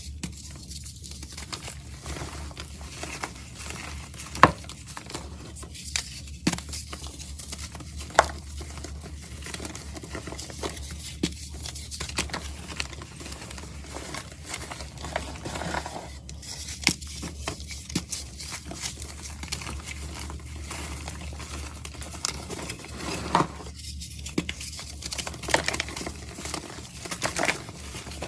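Crunchy powder ASMR: a dry, powdery block crushed and crumbled close to the microphone, giving irregular crisp crunches and snaps with soft crumbling between them. A steady low hum runs underneath.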